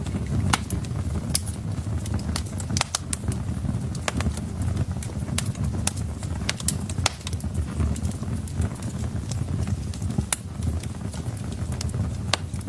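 Wood fire in a fireplace crackling, with frequent irregular sharp pops and snaps over a low, steady rumble of burning logs.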